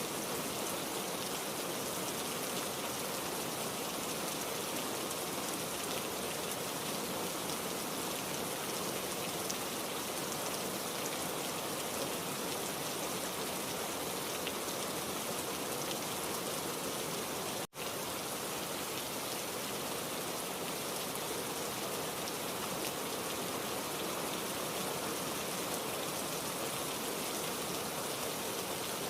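Heavy rain falling steadily in a dense, even hiss. About two-thirds of the way through it cuts out for an instant and comes straight back.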